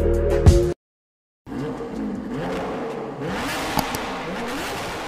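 Background music that cuts off abruptly under a second in. After a short silence, a Lamborghini Aventador SVJ's V12 engine revs up and down repeatedly, with a few sharp pops.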